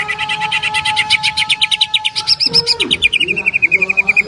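Green leafbird (cucak ijo) singing a long rapid-fire 'tembakan' series of sharp repeated notes, about ten a second, climbing in pitch and then dropping back lower about two and a half seconds in.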